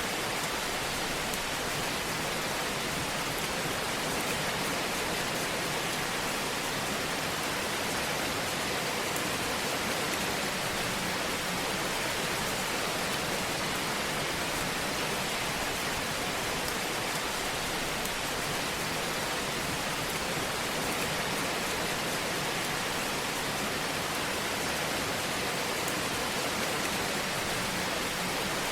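Fireplace ambience: an even, steady hiss of burning fire that does not change in level.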